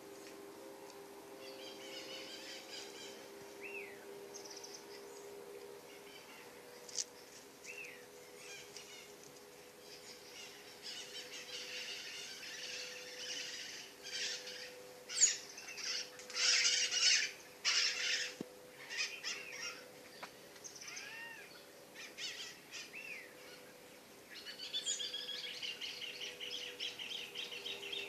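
Several wild birds calling and singing in a morning chorus: short chirps every few seconds, a louder burst of song about halfway through, and a rapid trill starting near the end. A faint steady hum sits underneath.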